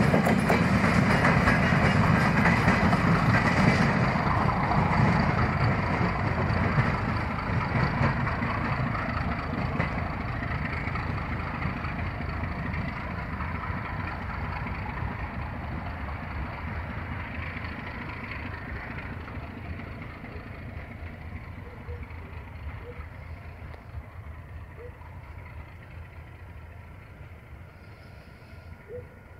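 Maintenance train of flat wagons and a railway crane car rolling past on the track, its rumble fading steadily as it moves away.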